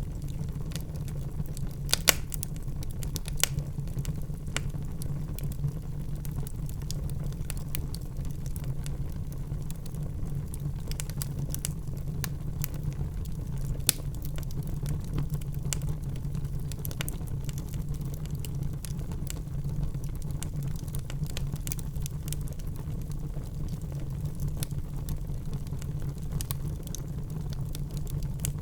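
Burning logs in a fireplace crackling and popping over a steady low rumble, with irregular clicks throughout. The sharpest pops come about two seconds in, again a second or so later, and once near the middle.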